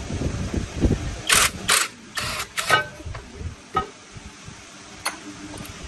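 A series of short, sharp knocks and clicks of workshop handling, several harsher scrapes in quick succession about a second in, then a few isolated clicks.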